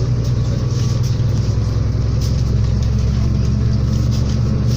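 MAZ-216 city bus engine running under way, heard from inside the passenger cabin: a steady low drone.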